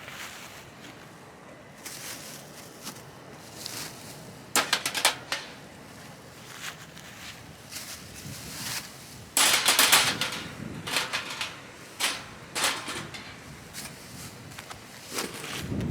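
Handling noises: scattered clicks, knocks and rustling, with a louder, denser burst of rustling about nine to ten seconds in.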